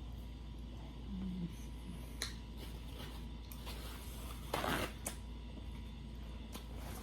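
Messy eating sounds from a seafood boil: a few short, wet crackles and smacks as shrimp are handled and chewed, the loudest about four and a half seconds in, over a steady low hum.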